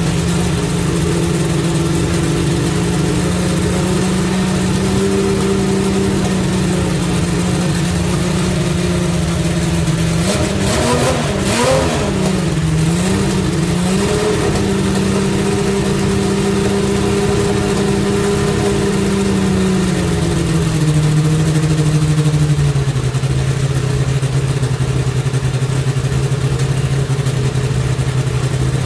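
The 1988 Nissan GTP-ZX Turbo's 3.0-litre turbocharged V6 running steadily at a fast warm-up idle. About ten seconds in, a short cluster of throttle blips makes the pitch jump up and down. About two-thirds of the way through, the idle drops and settles to a lower, steady speed.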